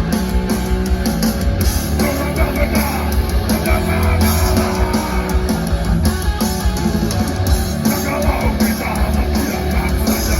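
Heavy metal band playing live: loud, distorted electric guitars over bass and drums, a dense, continuous wall of sound.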